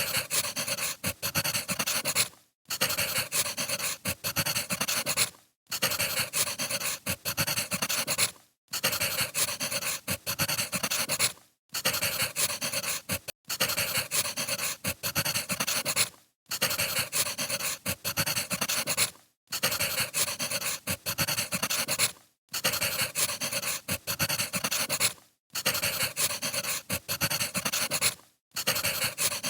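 Wood fire crackling, as a short recording played on a loop: about every three seconds it drops out to a moment of silence and starts again.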